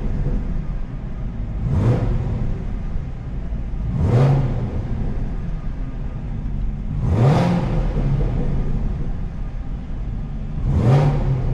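Camaro ZL1's supercharged 6.2-litre V8 idling and blipped four times through its active exhaust set to snow mode. Each blip is a quick rise in revs that falls back to idle, and the exhaust is kind of quiet in this mode.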